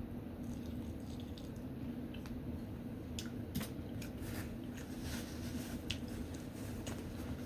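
Close-up eating of a seafood boil in creamy garlic butter sauce: wet squishing and smacking clicks of chewing, thickest from about three to six seconds in, over a steady low hum.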